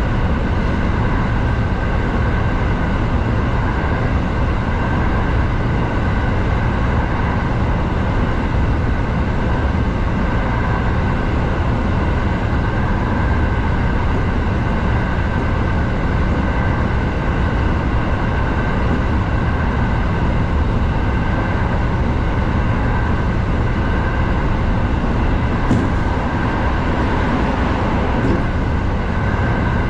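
Kintetsu 7000 series electric train running at steady speed through a tunnel, heard from the cab: a constant rumble of wheels on rail with a steady whine over it.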